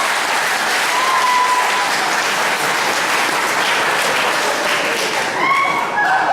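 Live audience applauding, a dense steady clatter of clapping. A voice starts to come through over it near the end.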